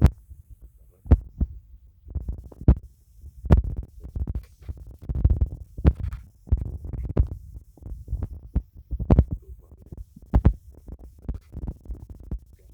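Irregular low thumps and rumbling with a few sharp clicks: handling noise on a phone's built-in microphone as it is carried around.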